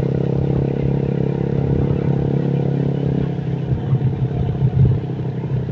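Honda Vario scooter engine, tuned up with a 55 mm piston, running steadily with a continuous drone while the scooter is ridden, with road noise.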